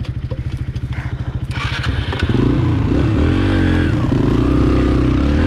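Small four-stroke pit bike engine ticking over at low revs with an even pulse, then revved hard a little over two seconds in as the bike pulls away, the revs rising and falling and then held high.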